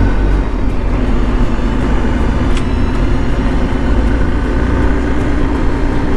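BMW R 1250 GS Adventure's boxer-twin engine running steadily while riding at road speed, with rushing road and air noise over it.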